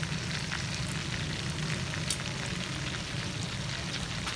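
Marinated chicken pieces sizzling in bubbling oil in a pan, a steady hiss with frequent crackles and small pops, over a low steady hum.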